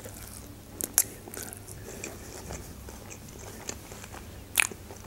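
Close-up chewing of a bite of lavash roll, with a few sharp, crisp mouth clicks, loudest about a second in and near the end.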